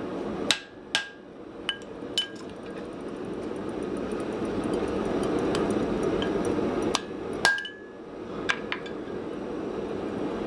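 Hand hammer striking a steel touch mark stamp into the hot forged hammer head: a few sharp blows and lighter taps in two groups, the second group starting about seven seconds in, some leaving a short ring, over a steady rushing background.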